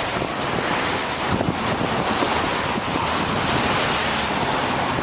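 Steady rushing of wind over the microphone mixed with tyre hiss on wet pavement, from a moving bicycle in the rain.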